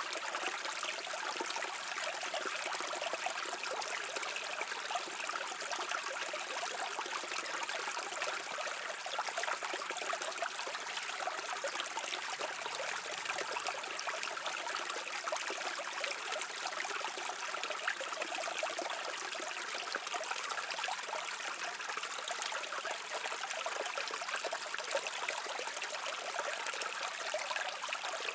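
A shallow stream babbling and trickling over rocks, steady and continuous with a bright, splashy texture.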